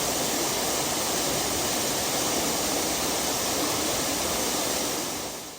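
Waterfall: a loud, steady rush of falling water that fades out near the end.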